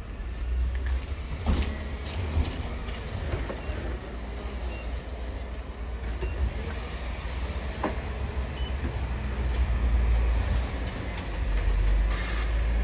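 Wind buffeting the microphone in a snowstorm: a low, gusty rumble that swells and eases, with a few faint clicks.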